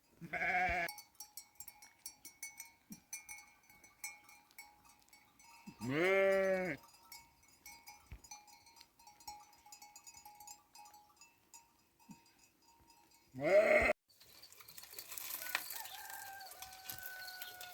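Sheep bleating: three loud, separate bleats, one just after the start, one about six seconds in and one near 13 seconds. Between them small bells tinkle faintly.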